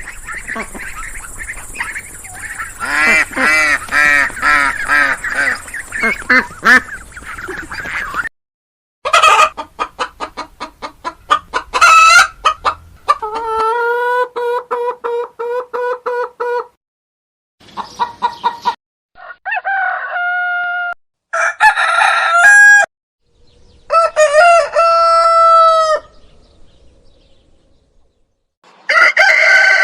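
Chickens clucking in quick, pulsed calls for the first half, followed by a rooster crowing several times, each crow a long pitched call with short gaps of silence between them.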